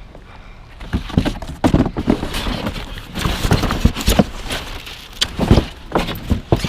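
Junk being rummaged through in a dumpster: irregular knocks, clanks and clatter of objects being shifted and dropped, starting about a second in.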